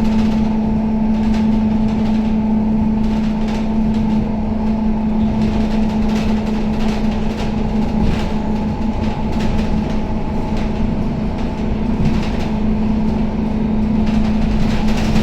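Scania K270UB city bus running, heard from inside the passenger cabin: a steady drone with an unchanging pitch, with a few brief knocks and rattles from the body.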